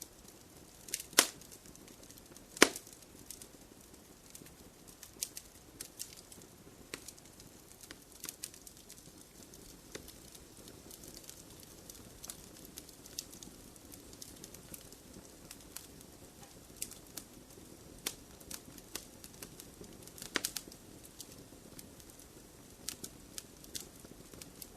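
Wood fire in a fireplace crackling, with irregular sharp snaps and pops of burning logs over a soft hiss; two loud pops about a second in and just before three seconds, and a quick run of pops near twenty seconds.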